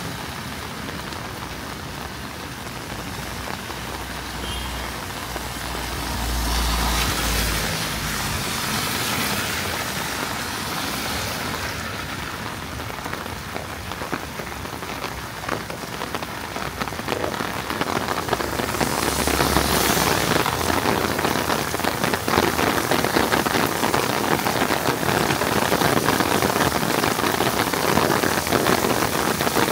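Heavy rain falling steadily and growing heavier about two-thirds of the way through. A brief low rumble comes about six seconds in.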